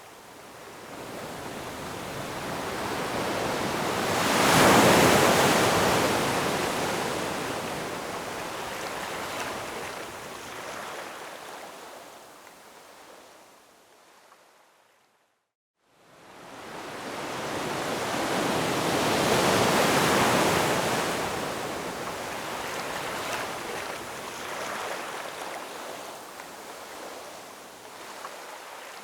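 Ocean waves washing onto the shore, two long swells that each build up and then hiss away. The sound drops out almost completely for about a second halfway through.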